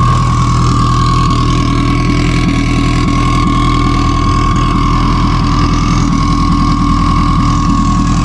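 Car engine idling steadily with a constant high whine over it.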